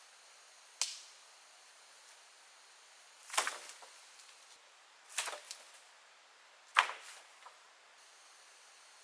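Four sharp strikes of a tool on wood, one to two and a half seconds apart, each with a short ringing tail; the last is the loudest.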